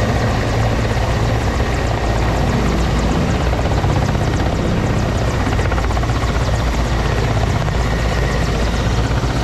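Helicopter rotor and turbine engine noise, loud and steady, with a fast chop of the blades.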